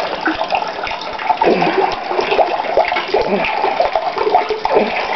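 Rainwater from a roof downspout pouring into an underground holding tank, a steady rush of splashing and gurgling water.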